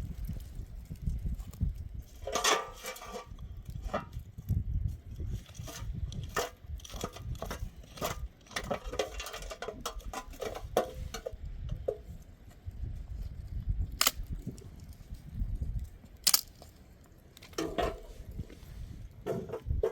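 Irregular knocks, clicks and light clatter of objects being handled, with a few short rustling bursts, over a low rumble.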